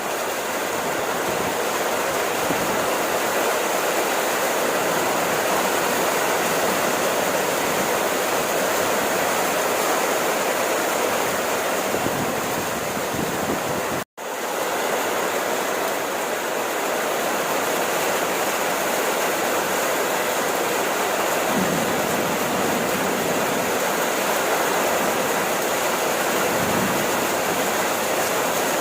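Steady, heavy rain, an even hiss, that cuts out for an instant about halfway through before carrying on.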